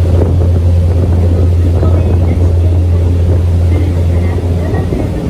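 Sightseeing boat's engine running with a steady low drone under churning water and wind noise.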